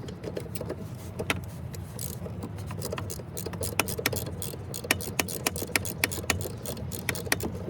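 Irregular sharp clicks and taps of hand tools on metal as work starts on the truck's EGR valve, over a steady low hum.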